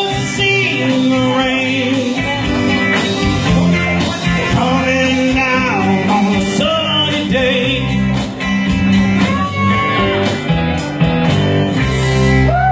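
Rock song near its close: singing over a band with guitar, bass and a steady drum beat.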